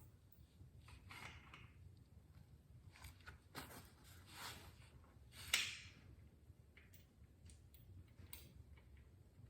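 Faint handling noises from tools and parts being worked during a motorcycle oil change: a few brief scrapes and rustles, with one sharper click about five and a half seconds in.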